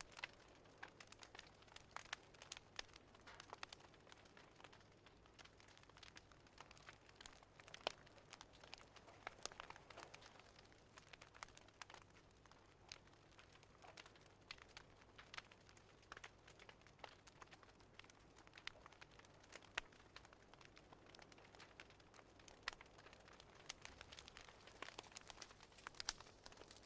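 Faint fireplace crackling: irregular sharp snaps and pops over a soft hiss.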